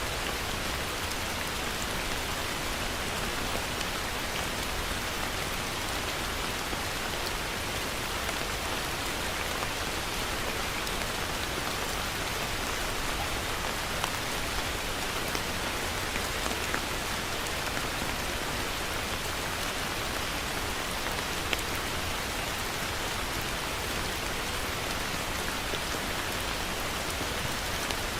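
Heavy rain falling steadily, an even hiss with occasional sharper drop ticks.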